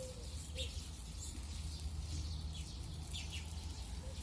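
Songbirds chirping sparsely outdoors, a few short high chirps spread through, with a short low call at the start and again at the end, over a steady low rumble.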